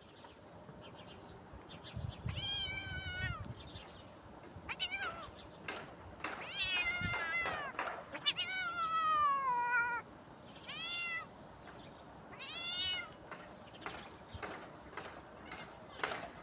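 Young cat meowing repeatedly, about six meows spaced a second or two apart, the longest ones drawn out and falling in pitch.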